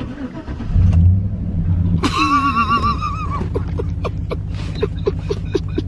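Chevy Silverado pickup engine cranking, catching with a brief rev just under a second in, then settling into a steady idle. About two seconds in a wild turkey gobbler gobbles once in answer to the engine start, a warbling call lasting just over a second.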